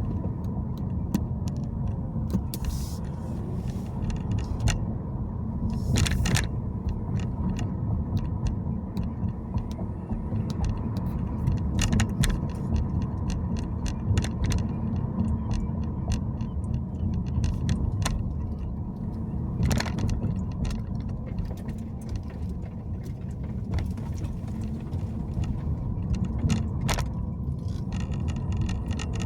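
Car driving on city streets or highway: a steady low rumble of road and engine noise, with frequent short sharp clicks and rattles throughout, a few louder ones scattered through.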